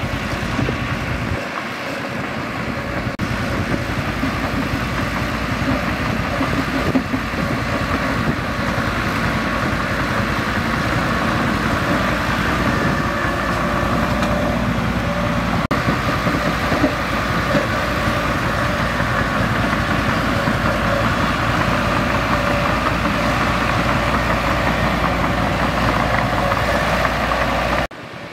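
Mitsubishi BD2G bulldozer's diesel engine running steadily as the dozer works pushing dirt. The sound drops abruptly just before the end.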